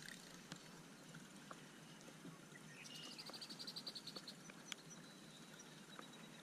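Quiet lakeside background with a bird's short, rapid high trill of about ten notes a second, about three seconds in, and a few faint clicks.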